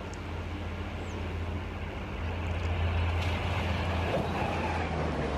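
Indian Railways express train hauled by an electric locomotive, passing at high speed: a steady rumble that grows louder about two seconds in as it closes on the track-side microphone.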